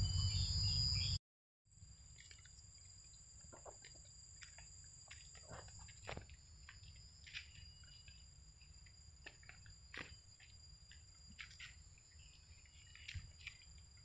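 Forest insects shrilling: a steady high-pitched drone made of two tones, with scattered soft ticks and taps over it. The sound drops out briefly about a second in, then returns quieter.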